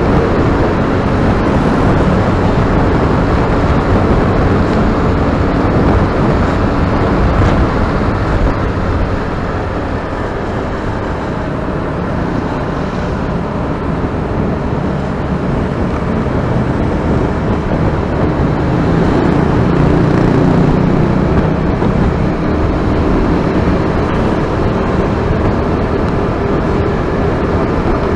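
Steady engine and road noise of a moving motor vehicle.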